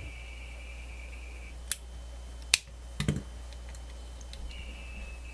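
Sharp clicks and a few dull knocks from handling a small radio under repair, with a steady high whine that cuts out about a second and a half in and comes back near the end.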